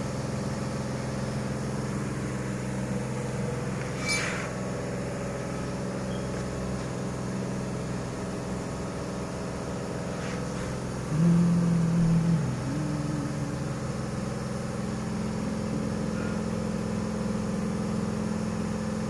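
Toyota 1GR 4.0-litre V6 engine idling steadily. There is a sharp click about four seconds in, and a louder, steady hum from about eleven seconds that steps down before stopping a second and a half later.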